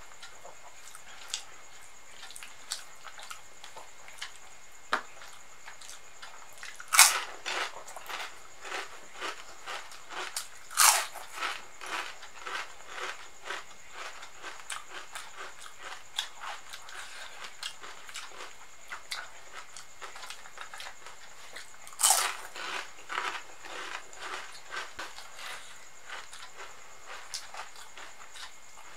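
Close-miked chewing and wet mouth sounds of a person eating khichdi by hand, a steady run of small clicks and smacks. Three louder, sharper crunchy bites or smacks stand out among them.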